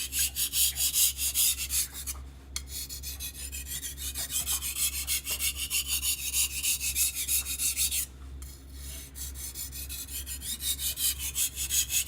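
Knife blade being stroked back and forth across a Naniwa Chosera whetstone: a rapid, rhythmic rasping, about four or five strokes a second, with two brief pauses between passes.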